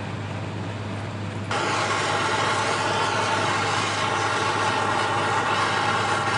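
Carving chainsaw with a dime-tip bar running at a steady speed. It jumps suddenly louder about a second and a half in and holds that steady pitch.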